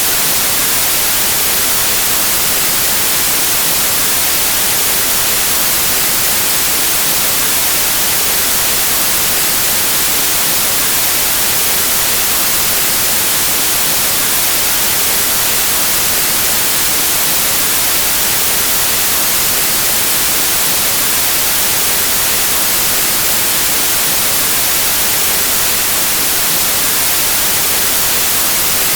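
Pure white noise: steady static hiss, unchanging throughout.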